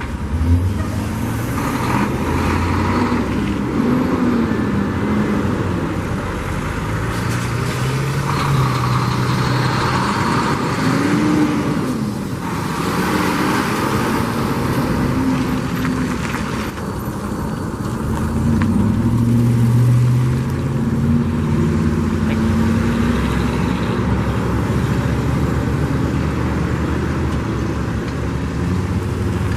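Motor vehicle engines running, their pitch rising and falling every few seconds over a steady background of traffic noise.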